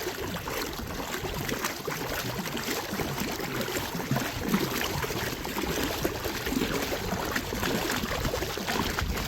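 Water splashing and trickling around a small paddled boat on the move, a steady, irregular wash with no clear stroke rhythm.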